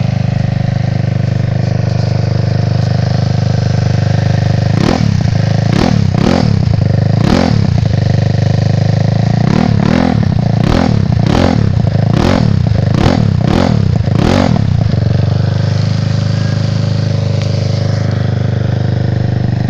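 GY6 scooter engine, stroked to 193cc with a Taida 4-valve head, running through a wide-open exhaust: it idles steadily, is blipped through a quick string of about ten short revs from about five seconds in, then settles back to idle.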